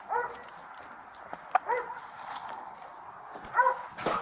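A police dog barking three times, short sharp barks spaced about a second and a half apart, with a sharp click just before the end.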